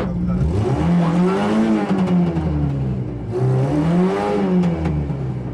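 Yugo rally car's engine heard from inside the cabin, revved up and let fall twice while the car stands still.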